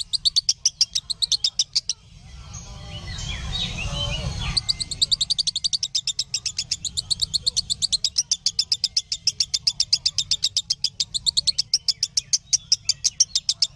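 A lovebird's long, rapid trill: sharp high chirps repeated evenly several times a second. About two seconds in, the chirps break off for a swelling rushing sound with lower gliding calls, then start again at about four and a half seconds and run on.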